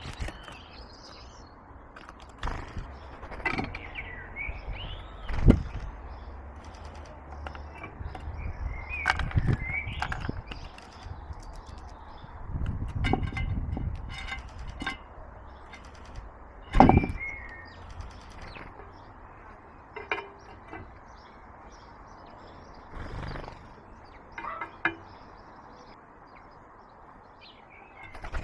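Small garden birds chirping at a wooden bird table, with short bursts of wing flapping and scattered sharp taps and knocks as they land and feed close to the camera.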